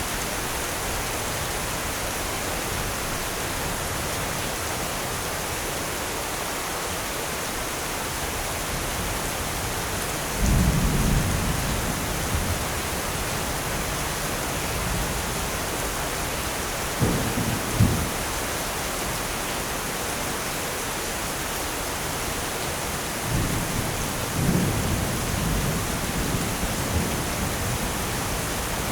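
Steady rain with thunder rumbling three times: once about ten seconds in, a short double rumble about seventeen seconds in, and a longer roll from about twenty-three seconds in.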